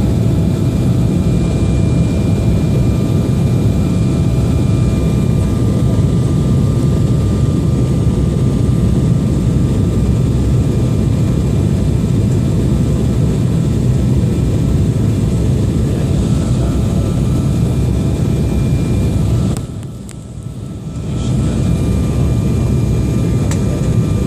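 Passenger aeroplane noise during a landing: a loud, steady rushing drone with a few faint steady tones above it. Near the end it dips for a second or two, then comes back.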